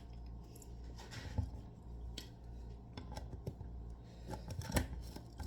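Scattered small clicks and knocks of kitchen things being handled, the sharpest a little before the end, over a steady low hum.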